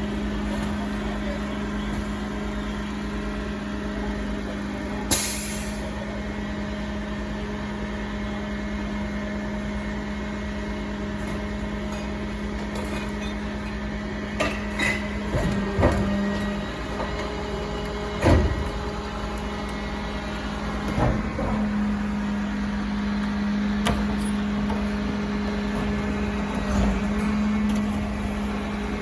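Street-cleaning truck running with a steady engine hum. About five seconds in there is a short, sharp hiss, and several knocks and clunks follow in the second half.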